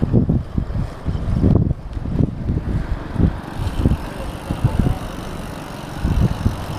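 Wind buffeting the microphone while riding a bicycle: loud, uneven low rumbling gusts.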